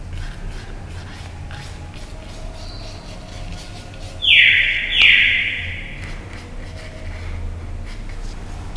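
A bird squawking twice in quick succession about four seconds in, each harsh call under a second long, over a steady low hum.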